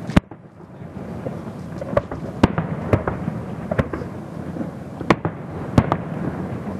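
Fireworks display: about eight sharp bangs at irregular intervals over a steady low rumble of bursts, the loudest just after the start.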